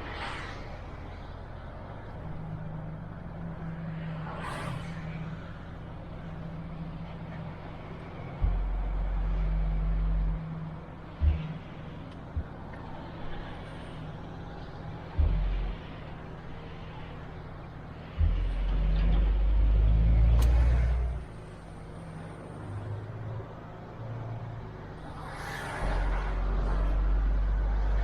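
MAN TGX truck's diesel engine running on the move, steady at times and with a deep rumble that swells for a few seconds at a time, three times in all. A few short hisses of air come between them.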